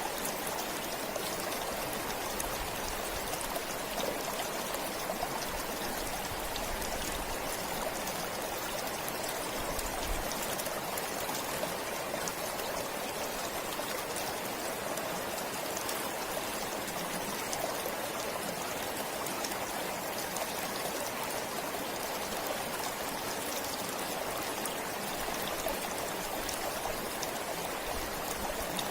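Stream water flowing steadily, an even rush of running water without breaks.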